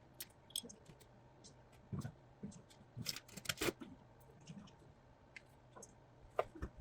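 Scattered light clicks and taps of small plastic and metal RC truck parts and tools being handled during disassembly, with a short cluster of them about halfway through and a couple more near the end.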